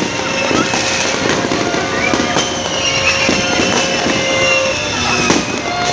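New Year fireworks going off continuously: a dense run of bangs and crackles, with long whistle-like tones held over them.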